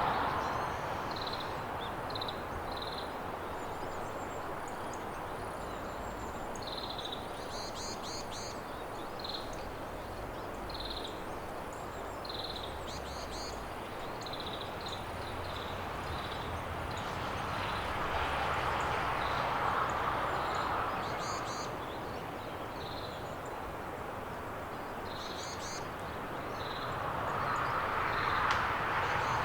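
Small wild songbirds calling with short, high chirps over and over, over a steady rushing background that swells twice, about two-thirds of the way in and again near the end.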